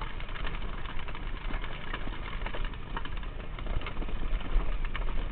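Quad bike engine running, with a steady low rumble and scattered short knocks and rattles.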